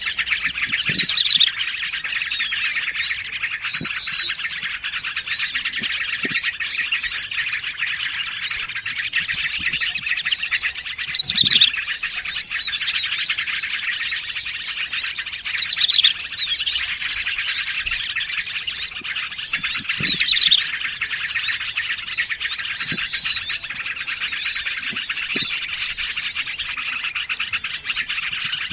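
Dense layered chorus of small songbirds, yellow-vented bulbuls and prinias among them, chirping and trilling without pause: a looped bird-trapping lure recording.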